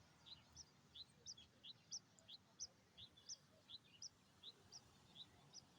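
A bird calling faintly with a steady series of short high chirps, about three a second, alternating between a lower and a higher note.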